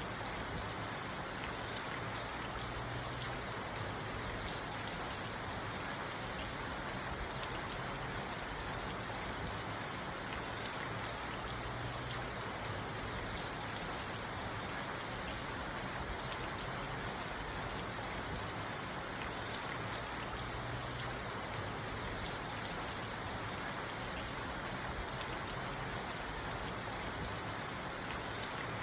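Steady rain falling on a parked car, heard from inside the cabin as an even patter without let-up.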